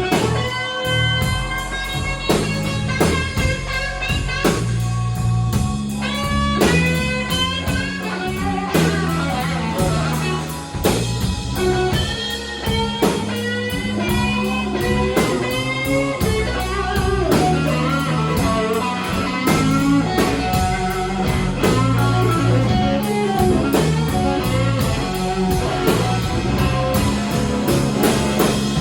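Live slow blues band: electric lead guitar playing bending, sustained lines over bass guitar and drum kit.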